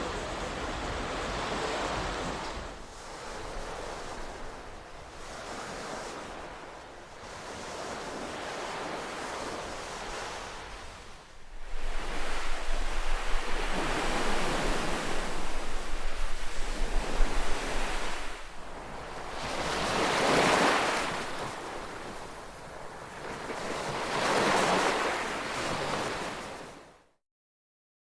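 Ocean surf washing onto a shore, each wave swelling and fading every few seconds, with a deep low rumble beneath the middle stretch. Near the end the sound cuts off abruptly into silence.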